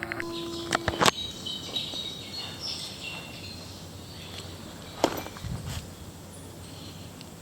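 Small birds chirping in short, high calls over steady outdoor background noise, with a few sharp clicks about a second in and again about five seconds in.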